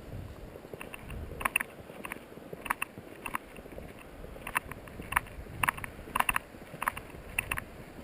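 Footsteps crunching in dry, very cold snow, about two steps a second, over a low rumble of wind on the microphone.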